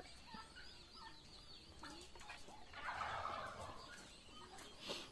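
Faint bird calls: a noisy call about a second long, about three seconds in, with light chirps high up before it.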